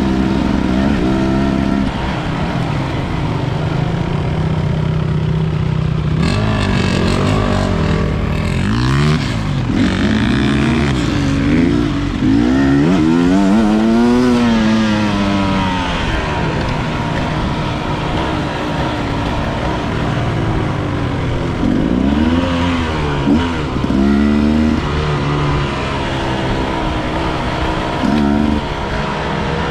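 Enduro dirt bike engine revving up and down as it rides, the pitch climbing and dropping again and again with throttle and gear changes, steadier in between.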